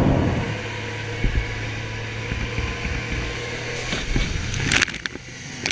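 Ship's engines and machinery humming steadily, with a few sharp knocks and clicks near the end.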